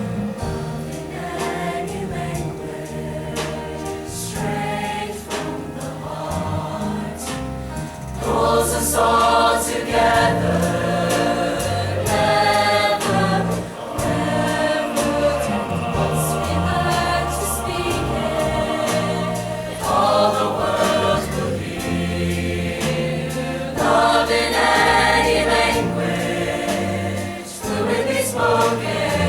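A choir singing with instrumental accompaniment and a bass line, growing louder about eight seconds in.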